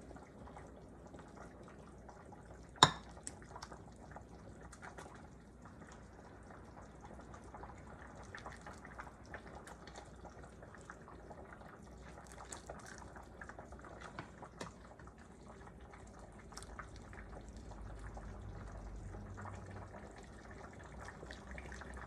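Pot of chicken soup, just off the hot stove, bubbling faintly with small liquid splashes and drips as it is dished out. One sharp clack comes about three seconds in.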